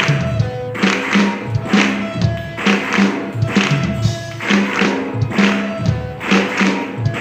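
Instrumental band music with no singing: a steady drum beat of about one and a half beats a second under held pitched notes, the introduction to a choir song.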